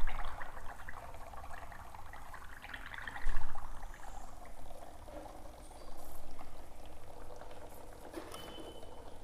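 Hydrogen gas bubbling through soapy water, with sudden louder pops from the hydrogen bubbles about three seconds in and again about six seconds in.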